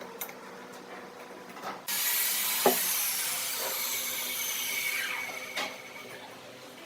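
A tool working wood: a loud, hissing, mostly high-pitched noise starts suddenly about two seconds in and runs for nearly four seconds before dropping away, with a sharp knock early in it and a few lighter clicks around it.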